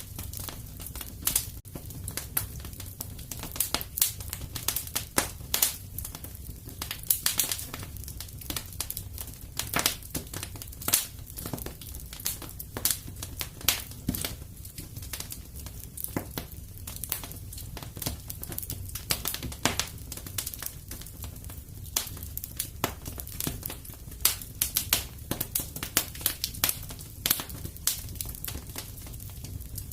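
Wood fire crackling and popping in irregular sharp snaps, over a steady low rumble.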